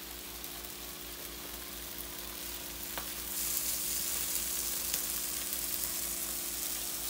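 Ham slices and thin beef steaks sizzling steadily on an electric griddle, a frying hiss that grows louder about three and a half seconds in.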